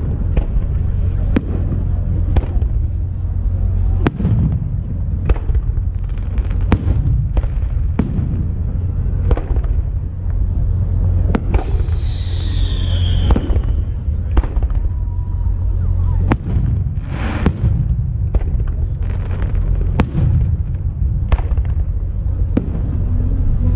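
Aerial firework shells bursting one after another, a string of sharp bangs and cracks, with a falling whistle about halfway through.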